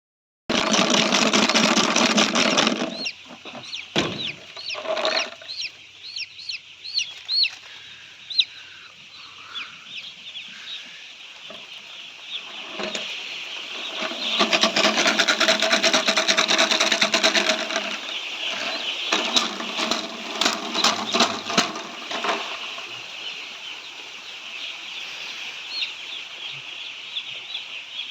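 A large flock of poultry chicks peeping continuously, many short high chirps overlapping. It is louder and fuller near the start and again for a few seconds past the middle.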